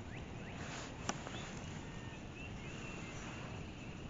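Quiet outdoor background with faint songbirds chirping on and off, and one sharp click about a second in.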